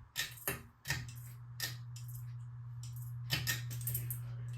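A few sharp clicks, then the Encon Crusader ceiling fan's motor comes on about a second in with a steady low electrical hum as it starts up again after having stopped. A few more clicks sound over the hum.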